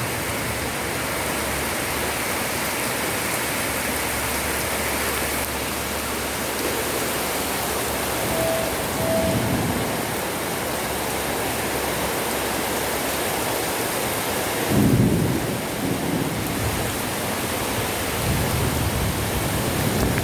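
Heavy rain pouring steadily, with a few low rumbles swelling up around the middle and again near the end.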